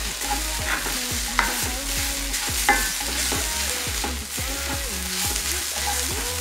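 Sliced onions frying and sizzling in a pan as they are stirred, with two sharp clicks about one and a half and three seconds in. The onions are already well softened, with chilli powder just stirred in.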